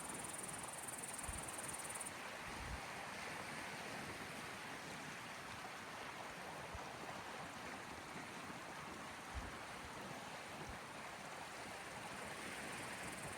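Small waves from the Gulf of Finland washing steadily against the shore, with a few soft low thumps. A high, steady insect trill stops about two seconds in.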